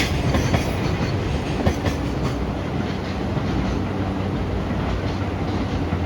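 N gauge model train running on the layout track, its wheels clicking over the rail joints for the first two seconds or so, then settling into a steady engine-like hum with running noise.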